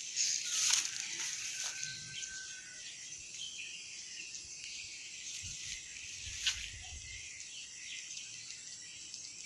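Swiftlets twittering in quick, high chirps, thickest in the first two seconds, over a steady high-pitched buzz.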